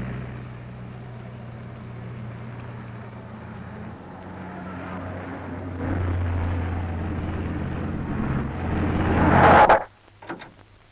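Car engine sound effect: a steady low motor drone that shifts in level a couple of times, swells about nine seconds in and cuts off suddenly.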